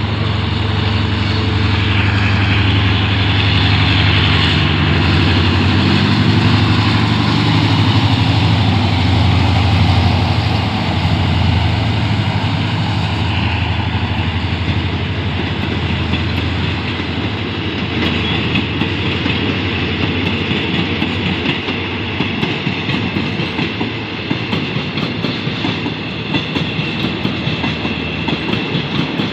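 Hitachi diesel-electric locomotive passing at departure, its engine hum strong at first and fading about halfway through. The passenger carriages follow, rolling by with a rhythmic clickety-clack of wheels over rail joints.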